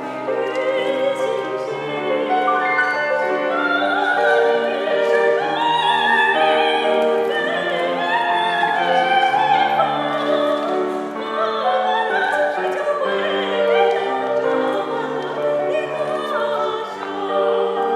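A solo singer in a trained, operatic style sings with live piano accompaniment, holding long notes with vibrato.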